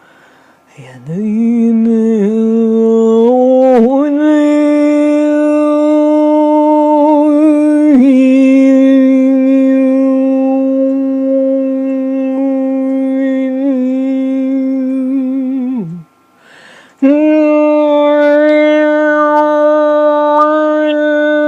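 A woman's voice toning: long, steady, sustained vocal tones with a slight waver. The voice glides up into the first tone, steps to a higher pitch about three seconds later, settles a little lower and holds it for about eight seconds, breaks off for a breath, then starts a new held tone.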